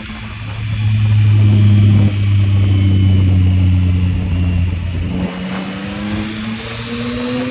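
Yamaha MT-09's inline three-cylinder engine running under way on a motorcycle, holding a steady note, with a brief dip about two seconds in. Near five seconds the note drops, then climbs steadily as the bike accelerates.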